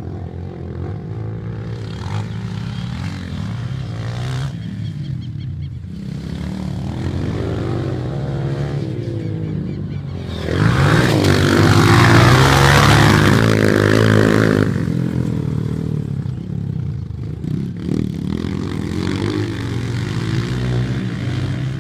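Dirt bike engines running, with one motorcycle passing close and loud about halfway through, its engine pitch shifting as it goes by before fading back to the more distant engine noise.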